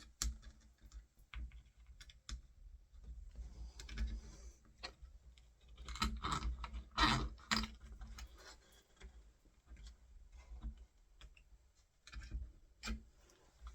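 Irregular small clicks and knocks of door handle and latch hardware being handled and fitted to a door, busiest about halfway through.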